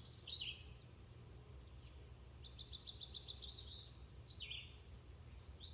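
Small songbirds chirping: several short high chirps falling in pitch, and a rapid trill of about ten notes near the middle, over a faint steady low hum.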